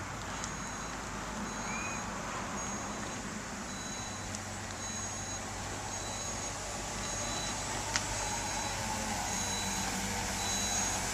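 Dump truck reversing: its backup alarm beeps at a steady pace of about one beep a second over the low hum of the 8.1-litre gasoline V8 engine, which grows a little louder in the second half.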